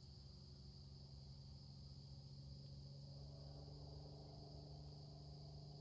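Faint, steady outdoor chorus of crickets, with a steady low hum beneath it.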